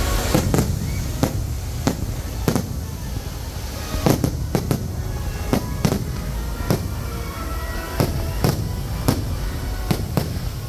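Aerial fireworks bursting one after another, about twenty sharp bangs at uneven spacing, roughly two a second, over a continuous low rumble.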